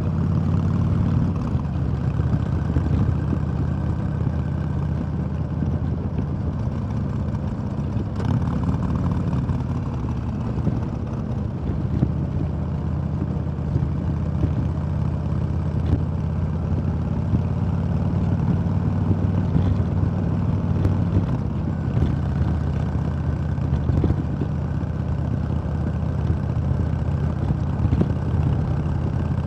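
2005 Harley-Davidson Sportster 1200 Roadster's air-cooled V-twin running while under way, its engine speed rising and falling a little, with wind and road noise.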